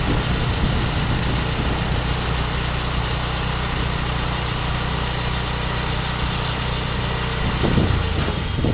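Engine of a portable bandsaw sawmill running steadily, with a couple of short knocks near the end.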